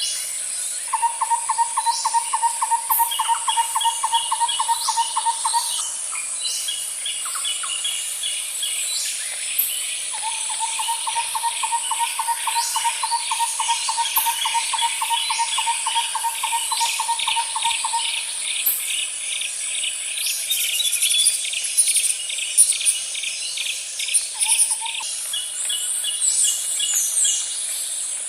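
Layered nature ambience of birds and insects. A steady high insect drone runs throughout. Over it come long, rapid pulsed trills, one of about five seconds and one of about eight, shorter pulsed call trains higher in pitch, and scattered short bird chirps.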